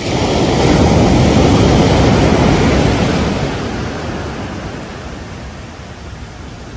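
Ocean surf on a beach: a wave breaks and rushes in at the start, stays loud for about three seconds, then slowly fades as it washes out, and the next wave begins to build near the end.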